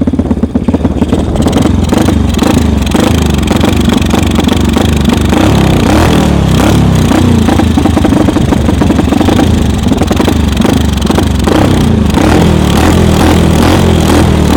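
Homemade snowmobile's small engine running loud and close, its pitch rising and falling unevenly as it is revved.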